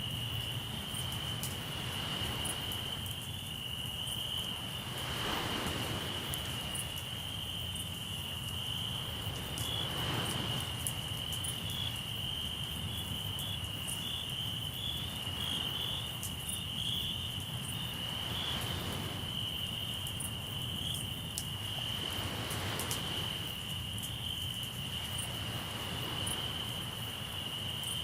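Crickets trilling in one steady high-pitched chorus, with surf washing in and falling away every few seconds and a campfire giving off scattered small crackles.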